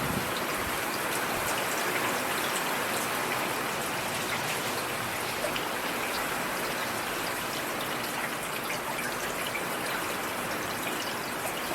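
Steady rain falling: an even hiss with the patter of single drops.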